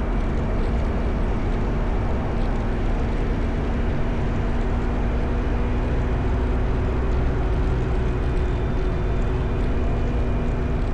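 Motorcycle riding at a steady speed: the engine holds an even note under a constant rumble of wind and road noise.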